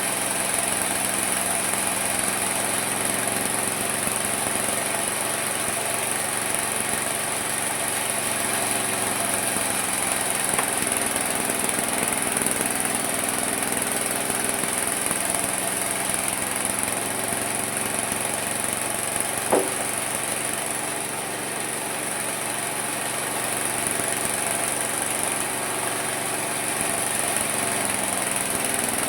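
Homemade mini sawmill running steadily: a motor hum with a high whine over it, its pitch dipping briefly twice. One sharp click about two-thirds of the way through.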